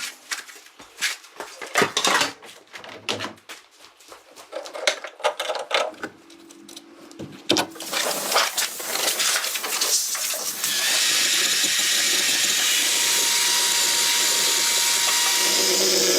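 Sharp knocks and metal clatter from hand-tool work for about eight seconds, then a power tool starts about ten and a half seconds in and runs steadily.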